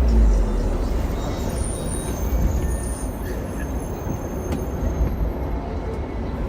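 Hong Kong double-decker electric tram running along its rails, heard from on board: a steady low rumble and clatter of the wheels and car body. Faint high thin whistles come in during the middle.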